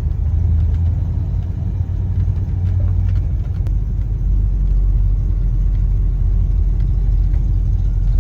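A moving car's engine and road noise: a steady low rumble.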